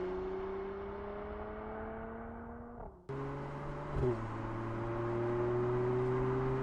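The 2017 Mercedes-AMG GLC 43's 3.0-litre biturbo V6 pulling under acceleration, its pitch slowly rising. The sound cuts out for a moment about three seconds in. About a second later the pitch drops as the 9G-TRONIC automatic shifts up, then it climbs again.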